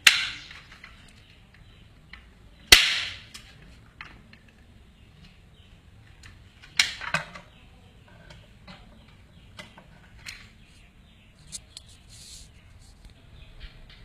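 Three loud, sharp knocks: one at the start, one a little under three seconds in, and one about seven seconds in, each dying away quickly, with fainter clicks and ticks in between.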